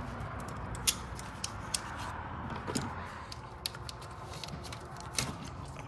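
Scattered sharp clicks and knocks of hand tools and metal parts while a coolant hose is worked off an engine, about six in all, the loudest about a second in and near the end.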